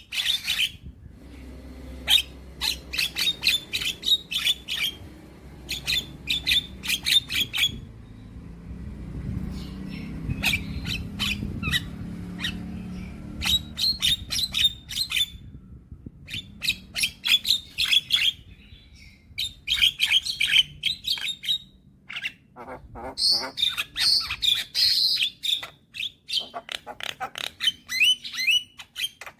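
Young Javan myna singing in bursts of rapid, harsh chattering notes, each run lasting a second or two with short pauses between. A low rumble sits under the song near the middle.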